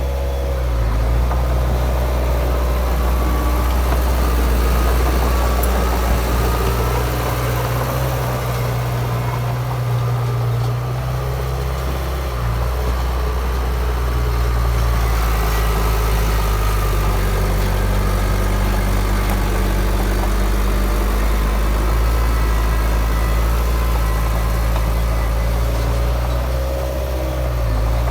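Heavy diesel engine of earthmoving machinery running steadily, its note shifting a few times.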